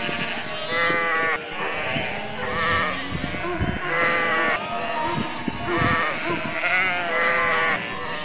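A flock of sheep bleating, many calls overlapping with hardly a pause, a new bleat starting about every second.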